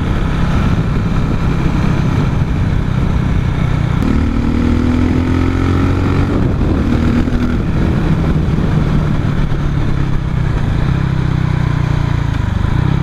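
Motorcycle engine running while riding, with a steady hum. About four seconds in its pitch rises as it accelerates, then drops back a couple of seconds later.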